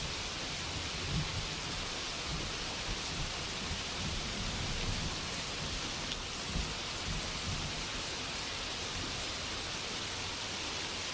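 Steady rainfall, an even hiss, with a faint low rumble underneath.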